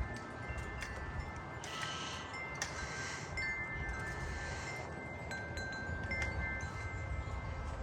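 Metal tube wind chimes struck again and again by gusting wind, several high ringing notes overlapping and ringing on, over a low wind rumble on the microphone. A louder rush of wind comes about two seconds in.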